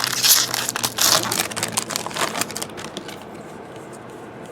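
Crinkling of a foil trading-card pack wrapper and cards being handled, busiest in the first two and a half seconds, then quieter with a few light ticks.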